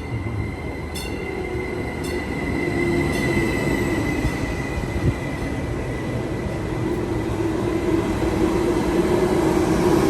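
Stadler FLIRT diesel commuter train running, its rumble and motor hum slowly building as it gains speed. Faint clicks come about once a second over the first few seconds.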